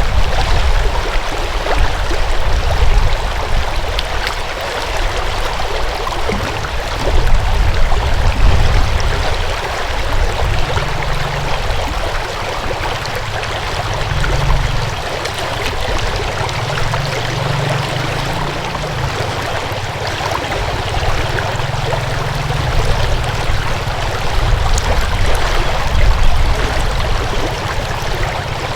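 Flowing water rushing steadily over rocks in a stream, with a low rumble that swells and fades.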